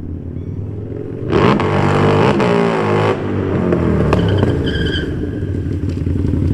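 Harley-Davidson motorcycle engine running, then revved hard about a second in, its pitch rising and falling for about two seconds with a loud rush of noise, before settling back to a steady run. A brief high squeal comes near the five-second mark.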